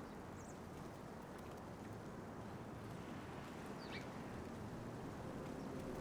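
A few faint, brief bird chirps, one falling in pitch about four seconds in, over a steady low outdoor rumble.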